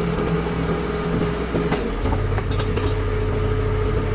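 An engine running steadily, with a few light clicks about two to three seconds in.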